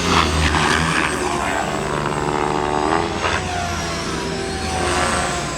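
Electric motors and rotors of radio-controlled model helicopters or multirotors whining in flight, several tones whose pitch rises and falls as the throttle changes, over a low steady rumble.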